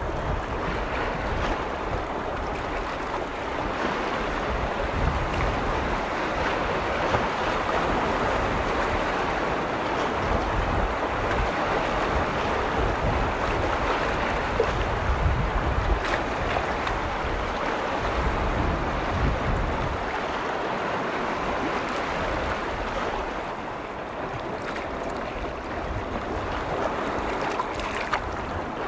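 Lake waves washing and lapping on a shore, a steady rush of water, with gusts of wind rumbling on the microphone that ease about two-thirds of the way through.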